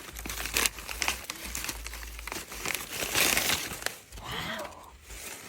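Crinkling and rustling of a protective fruit bag being handled and opened over a pomegranate, with a louder rustle about three seconds in.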